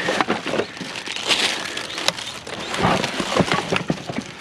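Rummaging through a curbside junk pile: a run of knocks, clatters and crunches as discarded items are shifted and handled.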